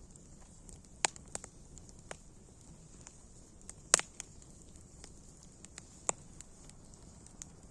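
Campfire crackling: irregular sharp pops over a faint steady hiss, the loudest pop about halfway through.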